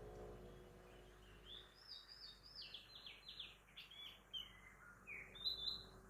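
A bird singing a quick run of short, bright notes that starts about a second and a half in and ends near the end, over a faint hum of town traffic.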